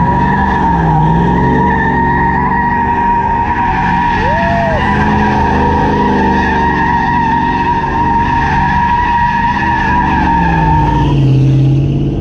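A car drifting, its tyres squealing in one steady high tone over an engine held at high revs. The squeal cuts off about eleven seconds in.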